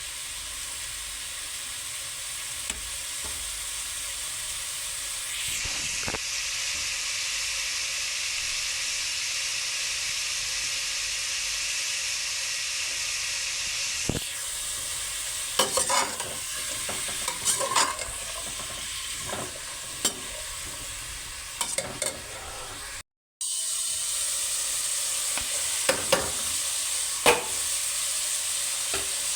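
Food sizzling as it fries in oil in a pan, a steady hiss that grows stronger about five seconds in. In the second half, a spoon scrapes and clinks against the pan several times as the food is stirred. The sound cuts out briefly about three-quarters of the way through.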